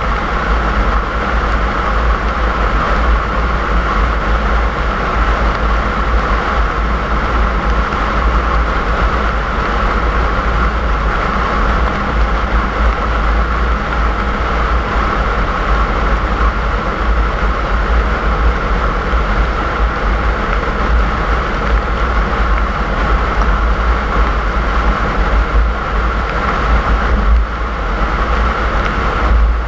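A car driving on snowy roads: steady road and engine noise with a constant low rumble and a hiss.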